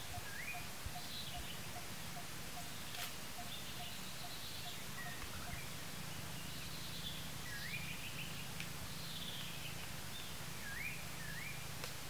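Forest birds calling: short rising whistles repeated every few seconds and higher chirps, over a steady series of low pips about twice a second that stops about five seconds in, with a low steady hum beneath.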